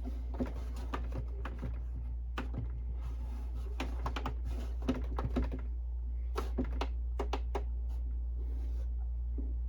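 Inkjet printer's plastic paper-feed mechanism clicking and rattling in three irregular bursts: the owner thinks a belt or gear inside has broken.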